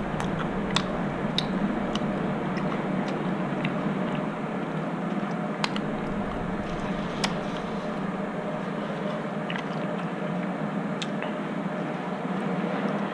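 Close-up mouth sounds of someone eating: chewing with scattered wet clicks and smacks, a few seconds apart, over a steady low background hum.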